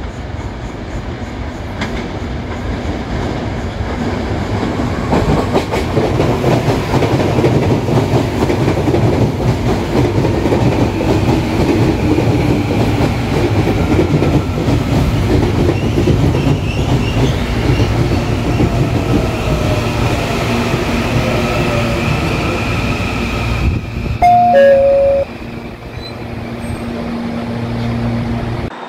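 A CPTM electric suburban train runs past close by, with wheel and rail noise and clickety-clack over the joints. About 24 seconds in, after a cut, a loud two-note falling chime sounds over the steady hum of a train standing at the platform.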